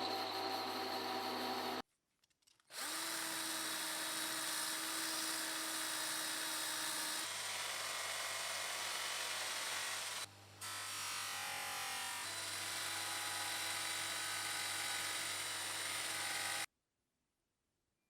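A small electric power tool, a drill or a rotary tool, running steadily at a constant hum. It stops and restarts twice, changing pitch slightly, then cuts off sharply near the end.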